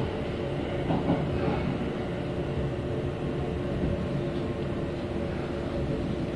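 Kintetsu express train running, heard from inside the passenger car: a steady rumble with a low hum throughout, and a couple of short knocks about a second in.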